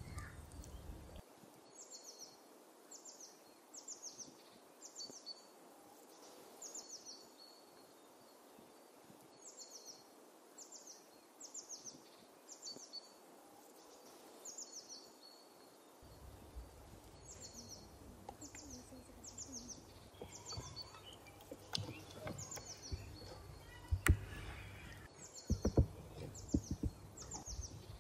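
A bird singing: short high whistled notes that slide downward, in quick runs of about three, repeated every second or two. From about halfway in, hands working a wet spice marinade on a steel plate add soft squelching and a few sharp taps near the end, the loudest sounds.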